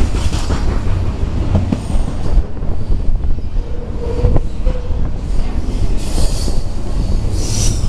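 Double-stack intermodal freight train passing close by: a heavy, steady rumble of well-car wheels on the rails. A brief steady squeal comes about four seconds in, and short high screeches come near the end.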